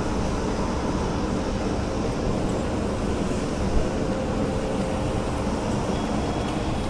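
Steady, even railway-station background noise around a stationary electric locomotive, with one brief knock a little past the middle.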